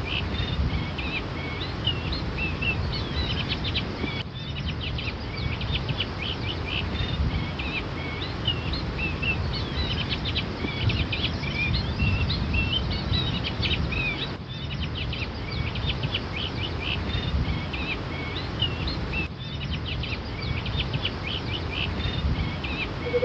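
Many small birds chirping and calling together in quick, overlapping short notes, over a steady low rumble.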